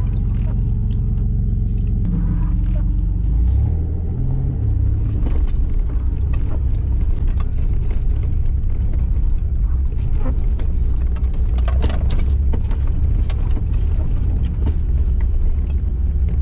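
Off-road 4x4's engine running, heard from inside the cabin, with its note shifting about three and a half seconds in. Frequent clicks and knocks ride over it as the vehicle bumps along a rough dirt track.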